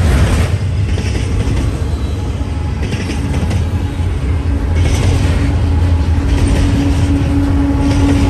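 Double-stack intermodal container train rolling past: steady heavy rumble of steel wheels on rail with bouts of clatter. From about three seconds in, a steady engine hum grows louder as a mid-train Kansas City Southern diesel locomotive approaches.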